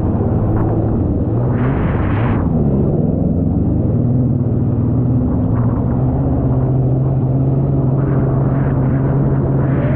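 Jet ski engine running steadily under way, its drone shifting slightly in pitch, with a rush of water and wind noise and a louder surge of spray about two seconds in.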